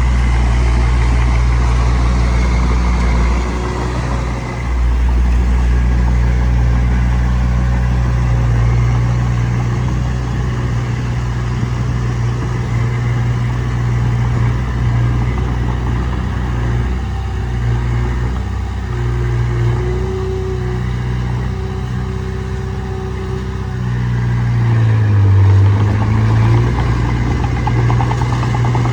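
Diesel engine of heavy earthmoving machinery running steadily, its pitch dipping and then rising again near the end.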